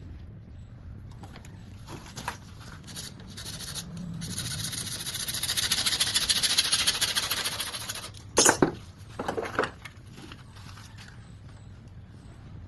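A tool scraping or cutting at a pipe, giving a harsh grating sound that swells for about four seconds and then fades. It is followed by two sharp knocks about a second apart.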